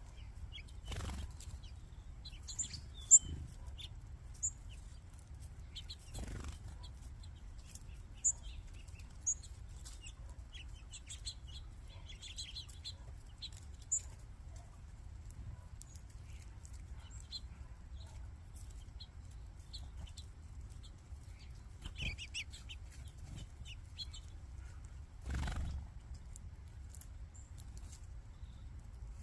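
Flock of small seed-eating birds chirping and twittering, many short high calls overlapping, with a few brief flurries of wingbeats as birds take off or land.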